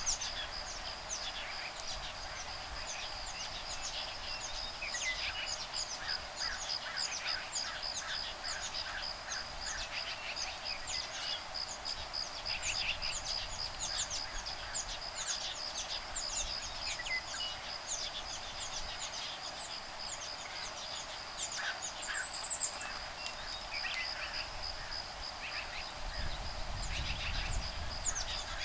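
Woodpecker nestlings and adults calling back and forth in quick runs of short chirps, over an insect's steady, rapidly pulsing high trill. A low rumble of wind on the microphone comes in near the end.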